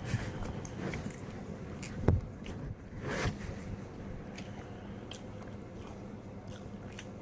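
A person biting and chewing pepperoni pizza close to the microphone, with wet mouth sounds and small crunches. A louder bite comes about two seconds in, and another about three seconds in.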